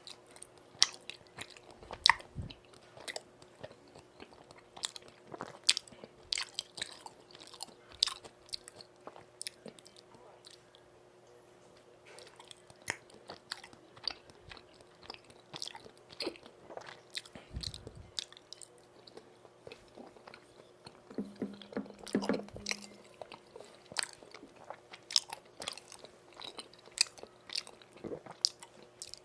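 Close-miked eating sounds of someone chewing spicy tteokbokki rice cakes: a run of wet mouth clicks and smacks, with a short lull partway through and a brief low hum about 21 seconds in.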